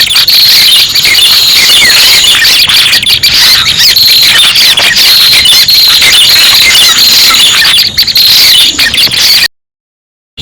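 Lure-call recording of prenjak pala merah (red-headed prenjak): a loud, dense stream of shrill, rapid chirps and trills with no pause, which cuts off abruptly to silence near the end.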